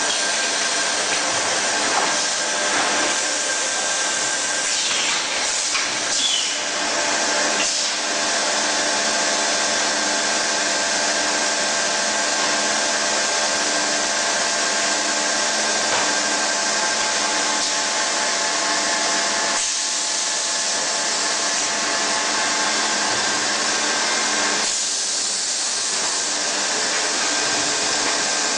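Blow moulding machine running: a steady loud hiss, like rushing air, over a hum of several steady tones. The sound shifts in character a few times.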